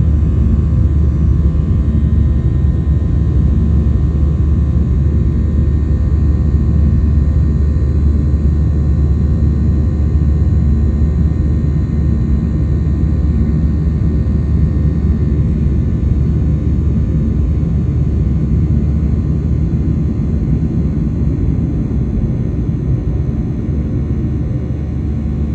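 Steady engine and airflow noise inside the cabin of a Boeing 737-800 climbing after takeoff: a low drone from its CFM56-7B turbofans, with faint steady hums above it. It eases slightly near the end.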